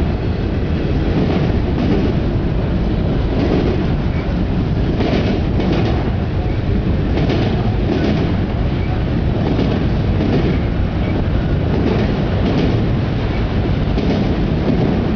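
Autorack freight train rolling past: a steady rumble of the cars with repeated wheel clacks over the rail joints, a little under once a second.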